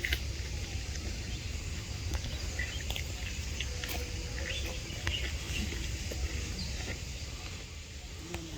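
Forest ambience: a steady low rumble with scattered faint short chirps and small clicks from birds or insects.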